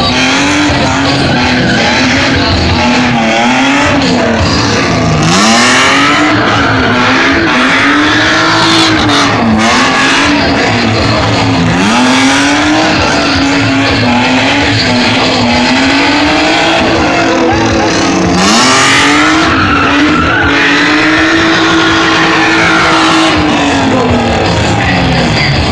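A stunt car's engine revving hard through a slalom, its pitch climbing and dropping again and again as it accelerates and backs off, then held high for a few seconds near the end. Tyre skid noise comes in twice, about five seconds in and again past the middle.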